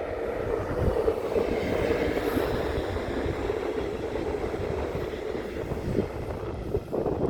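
S-Bahn commuter train passing on the railway, a steady rumble of wheels on rails that swells over the first second and then holds.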